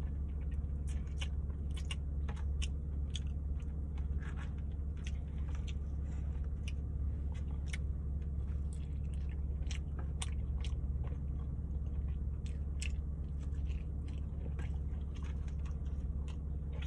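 Close-up eating of barbecue pork ribs: chewing and biting into the meat, with many short, sharp wet mouth clicks throughout, over a steady low hum.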